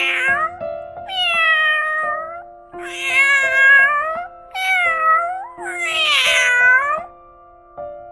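Domestic cat meowing, about five separate meows in a row, most of them drawn out and falling in pitch, over soft background music.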